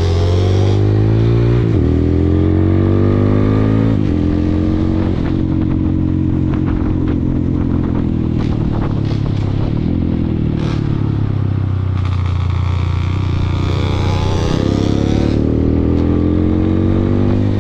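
Honda Grom 125's single-cylinder four-stroke engine, fitted with a Yoshimura carburettor and Yoshimura muffler, running and being revved: revs rise and fall briefly near the start, climb more slowly from about twelve to fifteen seconds in before dropping back, and rise again at the very end. In between it runs steadily, with a few sharp clicks around the middle.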